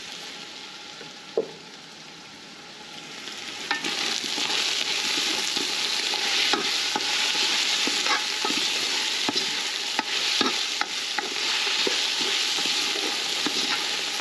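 Chopped vegetables sizzling as they fry in an aluminium pot, while a spoon stirs and scrapes them against the pot with scattered small clicks. The sizzle grows louder about four seconds in, once the stirring gets going.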